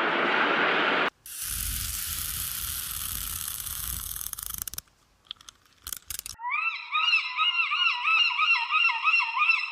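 Steady noise that cuts off about a second in, then a different hissing, rumbling clip, a few clicks, and from about six seconds in a goose honking in a fast run of calls that waver up and down in pitch.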